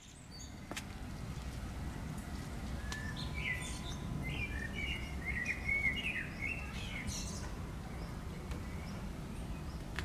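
A songbird singing a run of quick, high chirps and trills for a few seconds midway, over a steady low outdoor rumble. A single sharp click comes near the end.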